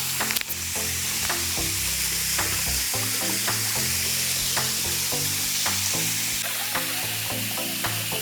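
Steady rush of falling water from a waterfall, with soft background music of low plucked notes underneath. A single sharp click comes about half a second in.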